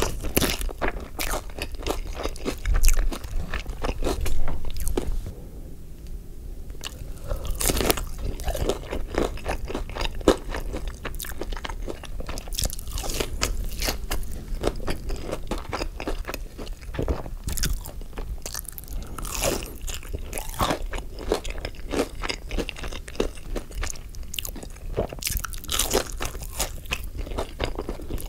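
Close-up crunching, biting and chewing of crispy fried food (Wingstop chicken wings and fries), a dense crackle with two louder bites a few seconds in.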